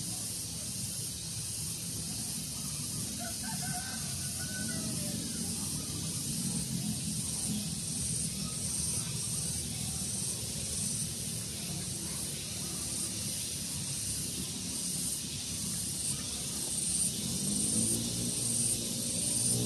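Outdoor daytime ambience: a steady high-pitched hiss over a low rumble, with a few faint bird chirps a few seconds in. Near the end, a rising hum builds.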